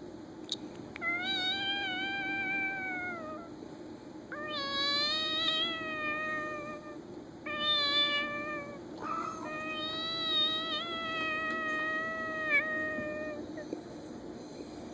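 A person imitating a cat, making four long, drawn-out meows in a high voice, each held for a second or more with a slight waver.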